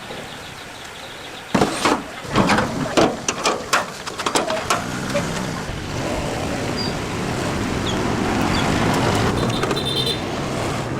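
A sudden clatter of knocks and short sharp sounds, then a steady motor-like running noise that slowly grows louder.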